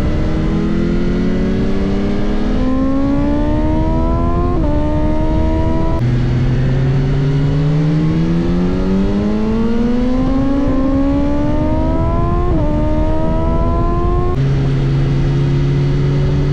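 BMW S1000RR inline-four engine accelerating hard on track, its pitch climbing in long glides through the revs. The note dips briefly at upshifts about four and a half and twelve and a half seconds in, and drops lower at about six and fourteen seconds in before climbing again.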